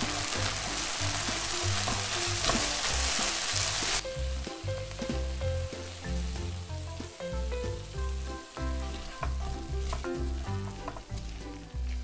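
Squid stir-fry sizzling loudly in a nonstick frying pan as frozen chopped cheongyang peppers go in; the loud sizzle cuts off sharply about four seconds in. Then a quieter sizzle follows, with scattered spatula taps and scrapes over background music.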